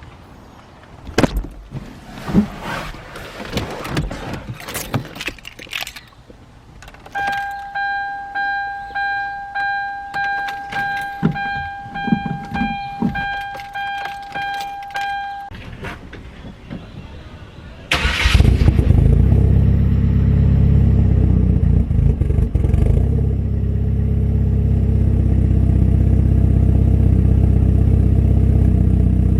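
Scattered clicks and rattles, then a repeating electronic chime for about eight seconds. About eighteen seconds in, the Genesis Coupe's rebuilt, turbocharged 2.0-litre Theta four-cylinder cranks, fires and settles into a steady idle: the first start of the freshly built motor.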